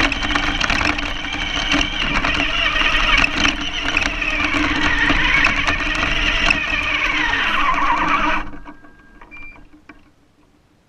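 Radio-controlled car's motor and drivetrain whining under power, its pitch wavering and then falling, before dying away about eight and a half seconds in. Near the end a couple of faint short beeps sound.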